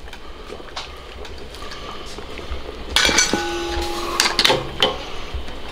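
Metal strainer and ladle clanking against a wok as blanched pork knuckles are lifted out of the boiling water. About three seconds in come a few sharp knocks, one leaving a metallic ring for about a second, then more clanks.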